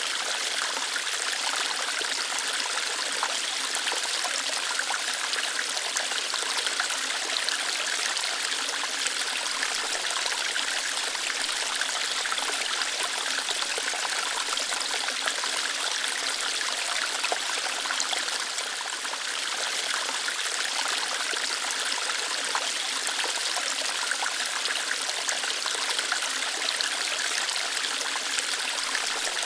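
Waterfall, water flowing lightly through rocks: a steady, even rush with little deep rumble.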